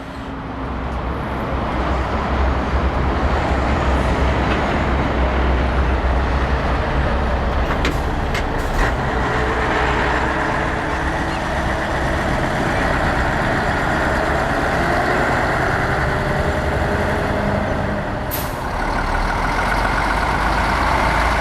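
Heavy diesel truck engine running close by with a steady low rumble. Short sharp sounds come about eight and nine seconds in and again near the end.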